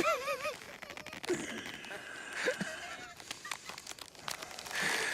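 A short, wavering, strained cry from a person right at the start, followed by scattered clicks and rustling.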